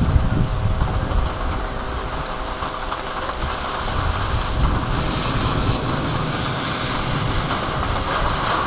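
Heavy thunderstorm rain falling steadily as an even hiss, with a low, uneven rumble underneath.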